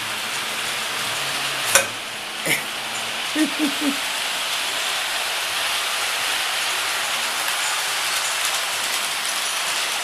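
Steady hiss with a sharp click a little under two seconds in and a softer knock half a second later, then three short pitched squeaks in quick succession.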